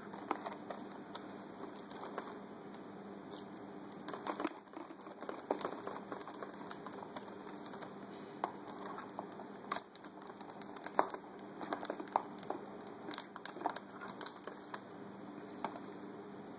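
A grey parrot's beak tapping, clicking and crinkling at the plastic wrapper of a chocolate bunny as it pushes it about, in irregular bursts of small clicks.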